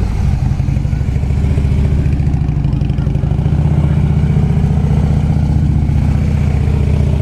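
Harley-Davidson touring motorcycle's V-twin engine running steadily.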